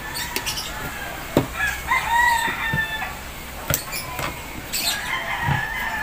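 A bird's call held at one pitch for about a second and a half, starting about a second and a half in, with a shorter call near the end. Sharp clicks come in between, from the small plastic fiber-optic termination box being handled.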